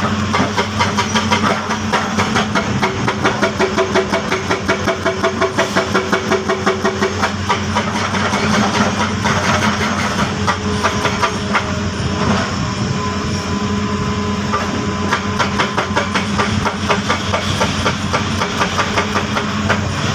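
Heavy diesel machinery engine running, with a rapid, even pulsing through the first half that then settles into a steadier drone.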